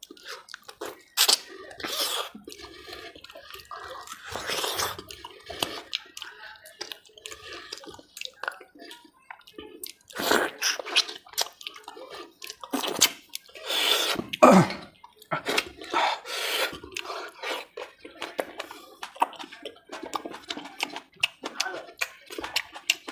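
Close-miked eating of mutton curry and potato by hand: wet chewing and lip-smacking, a quick run of sharp, wet clicks and smacks.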